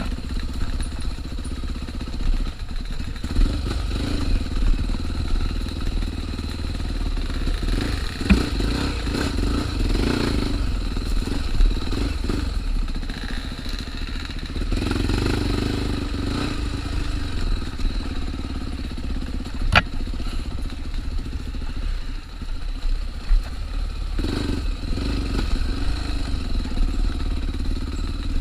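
Trail motorcycle engine running while riding a dirt trail, its note swelling and easing with the throttle over a steady low rumble. A few sharp knocks come from the rough ground, the clearest about two-thirds of the way in.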